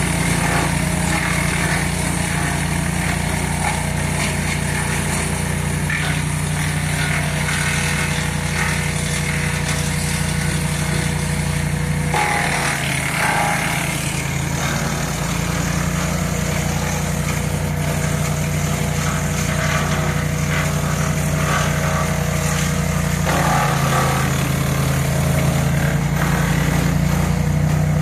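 DCW-40 wood chipper's engine running steadily, its note dipping briefly about twelve seconds in and again a few seconds before the end.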